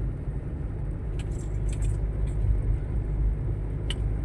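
Steady low rumble of motor vehicle traffic, with a few light clicks and ticks over it.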